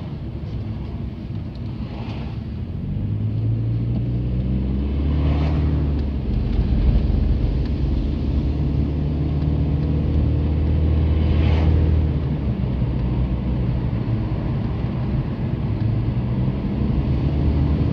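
BMW E46 316i's 1.9-litre four-cylinder engine heard from inside the cabin while driving, its note rising and stepping in pitch a few times as the car accelerates through the automatic gearbox's gears.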